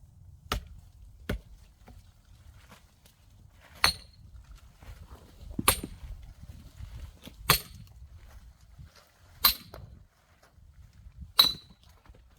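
Axe blows on a knotty, still-green oak log being split: two lighter knocks, then five heavy strikes about two seconds apart, several with a short metallic ring.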